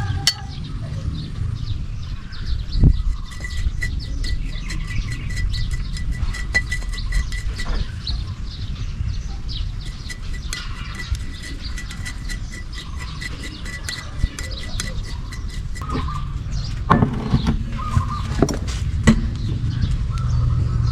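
Outdoor ambience with bird chirps and a faint pulsing high trill over a steady low rumble, with a few knocks near the end.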